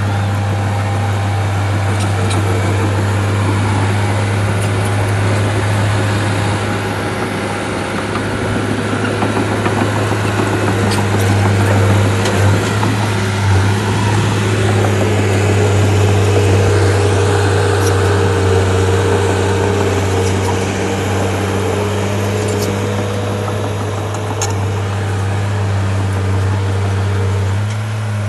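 Shantui bulldozer's diesel engine running steadily with a deep, even hum, the pitch rising a little midway, with a few faint knocks.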